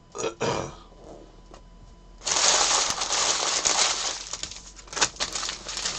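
Crinkling, rustling handling of trading-card pack wrappers and cards. It starts suddenly about two seconds in and carries on with scattered sharp crackles.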